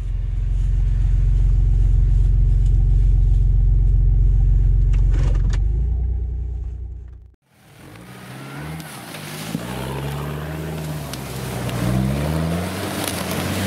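Off-road 4x4 engine idling with a steady deep hum, which fades out about seven seconds in. Then a Nissan Patrol's engine revs up and down, its pitch rising and falling, as it drives up a leaf-covered forest slope.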